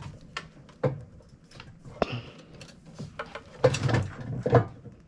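Irregular knocks and clunks of metal parts being handled as the motorcycle engine, frame and jack are shifted, with the loudest few knocks close together about two-thirds of the way in.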